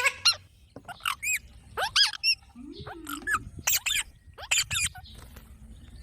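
Green parrots giving short, shrill, squeaky calls in quick succession, several overlapping, a few each second. About three seconds in there is a lower wavering sound, like a voice.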